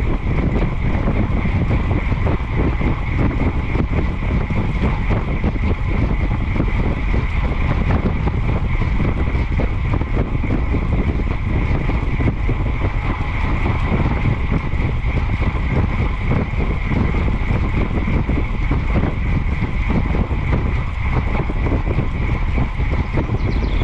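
Wind rushing and buffeting over the microphone of a bicycle moving at speed, a steady loud roar with a constant higher hiss running through it.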